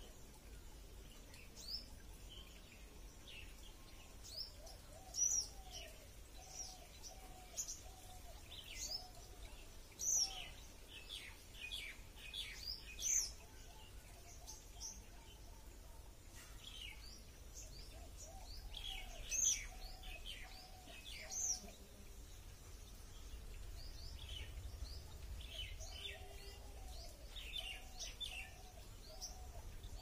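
Birds calling: scattered short, high chirps, a few sharp ones much louder than the rest, over runs of repeated lower notes lasting a few seconds each. A steady low rumble of background noise sits underneath.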